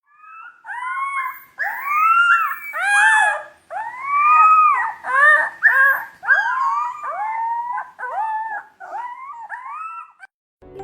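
Wolf pups howling together: several high voices overlap in short howls that rise and fall, with a few brief yips among them, stopping shortly before the end.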